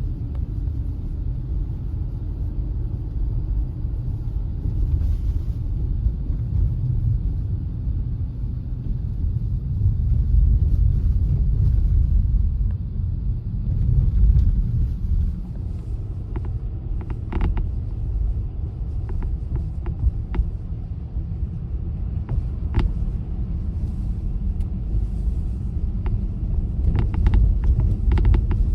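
A car driving, its steady low rumble from road and engine going on throughout. From about halfway through, a few short sharp clicks and creaks stand out, a couple of them close together near the end.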